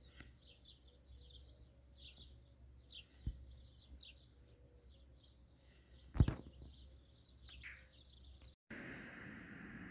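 Birds chirping faintly, many short high calls following one another. A sharp click about three seconds in and a louder knock about six seconds in. After a sudden cut near the end, a steady rushing noise.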